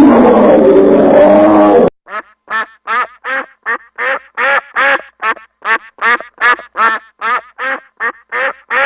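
A loud animal call with several pitched lines for about two seconds, cutting off abruptly, then a duck quacking in a fast, even series of short quacks, about three a second.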